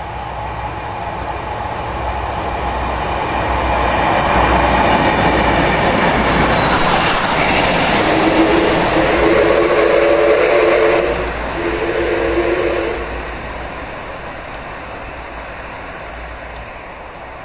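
A Taiwan Railways train, diesel locomotive R155 hauling steam locomotive DT668 and a passenger coach, passing through the station. The rumble and clatter of the wheels builds, is loudest in the middle, then fades away. Two long blasts of a signal tone sound at about eight and about twelve seconds in.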